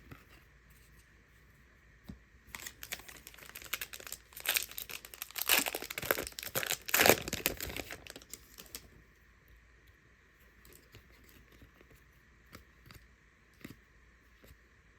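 Plastic wrapping of a trading-card pack or blaster box being torn open and crinkled, a crackly rustle that builds for several seconds and stops about nine seconds in, followed by a few faint clicks of cards being handled.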